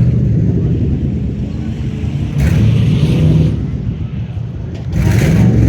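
Full-size pickup trucks racing, their engines running hard with the pitch rising and falling. The sound swells twice, a couple of seconds apart.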